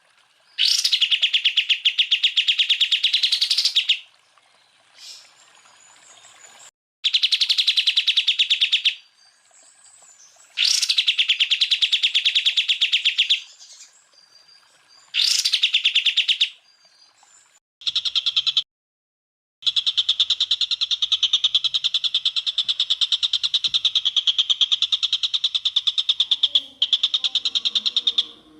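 Greater green leafbird (cucak ijo) singing its rapid 'tembakan' song: loud, fast, high trilled bursts of about three seconds each, separated by short pauses, then one long unbroken bout in the second half.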